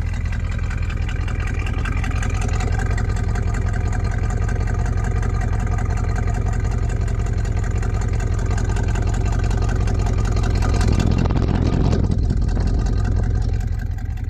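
Old truck's engine idling steadily and smoothly on freshly replaced spark plugs after an overdue tune-up, with a brief louder swell about eleven seconds in.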